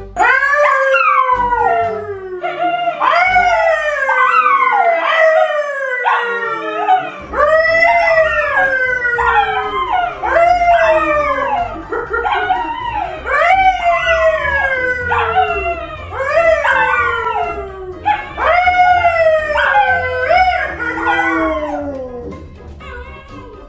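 A pet animal howling over and over, each howl rising sharply and then sliding down in pitch, about one a second. Background music with a steady low beat comes in under it.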